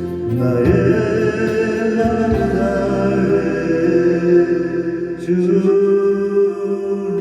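Acoustic guitar and a singing voice playing the closing bars of a slow Korean ballad, with long held notes.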